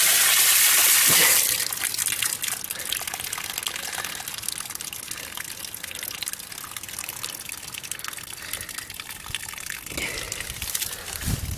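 Outdoor water tap running full open, water gushing out of a pipe that is starting to freeze. About a second and a half in the rush cuts off sharply, leaving quieter irregular crackling.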